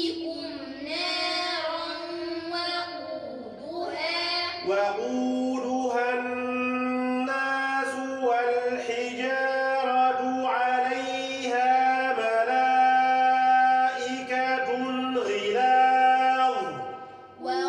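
Quran verses chanted in melodic recitation, the voice holding long drawn-out notes between short breaks, with children's voices among those reciting.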